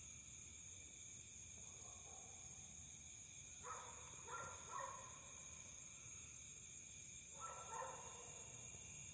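Dogs barking faintly, a few barks about four seconds in and a couple more near the end, over a steady high-pitched chorus of crickets.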